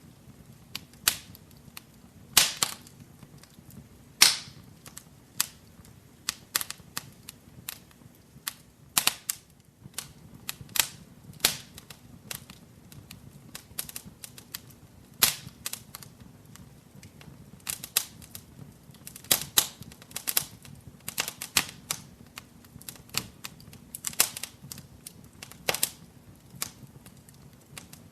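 Wood fire crackling in a fireplace: irregular sharp pops and snaps, sometimes several close together, over a faint steady low rumble of the burning.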